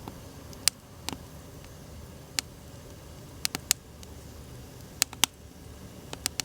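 Wood fire crackling: sharp, irregular pops, about eight in a few seconds, over a low steady hiss.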